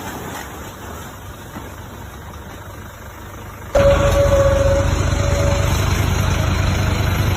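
Scania truck's diesel engine running, faint at first. About three and a half seconds in, the sound abruptly gets much louder, with a steady low rumble and a brief whine that fades away.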